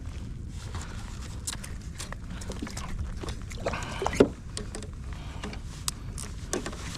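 Small clicks and rattles as a hooked sand bass is handled and unhooked, with a short grunt-like vocal sound about four seconds in, over a steady low rumble.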